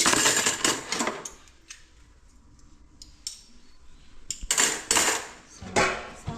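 Dishes and cutlery clattering and clinking as washed kitchen utensils are handled and wiped, in two loud spells near the start and again about four and a half seconds in, with a few light clicks between.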